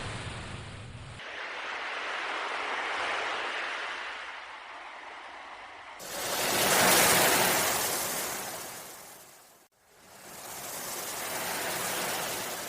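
Sea waves washing in and drawing back in slow swells, three in a row, the loudest about seven seconds in. The recording changes abruptly between swells, as spliced sound-effect takes do.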